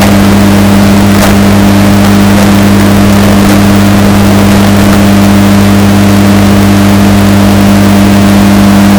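Washing machine running, bass-boosted and distorted to a harsh, very loud level: a steady deep hum under a dense noisy wash, with a faint click now and then.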